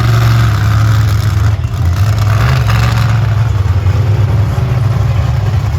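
Monster truck engine running loud under heavy throttle, surging at the start and again about two and a half seconds in.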